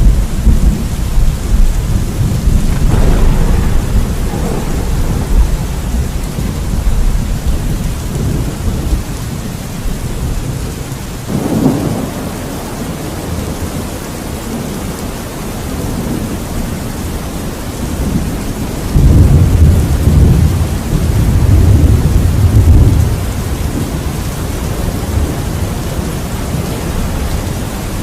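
Steady rain with rolling thunder. A deep rumble fades over the first several seconds, a sharper thunderclap comes about eleven seconds in, and a heavy rumble swells and rolls between about 19 and 23 seconds.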